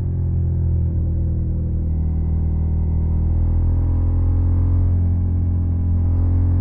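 Suzuki SV650 V-twin engine running through a Yoshimura Alpha carbon exhaust, holding a steady, deep note at constant revs.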